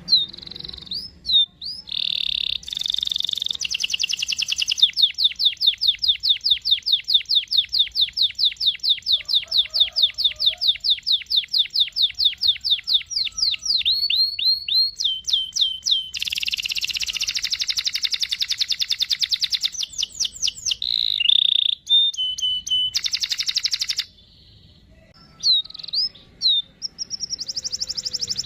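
Domestic canary singing: sharp chirps, then a long, fast rolling trill of rapidly repeated notes, followed by buzzy, rattling phrases and a brief pause before more chirps.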